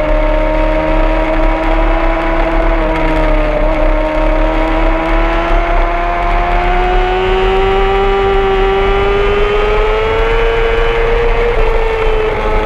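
Honda CBR600RR inline-four sport-bike engine heard from on board at high revs, its pitch climbing slowly and steadily as the bike pulls, over a steady low wind rumble.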